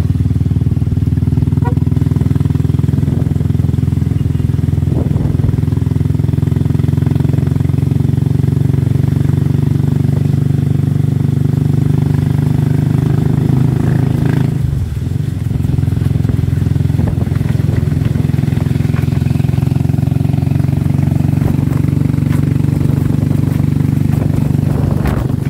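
Motorcycle engine of a tricycle (a motorcycle with a sidecar), heard from inside the sidecar while riding, running steadily. About halfway through, the engine note dips and then climbs again.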